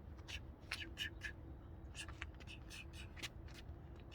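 Birds outdoors giving a series of short, harsh calls, about a dozen scattered irregularly, over a low background rumble.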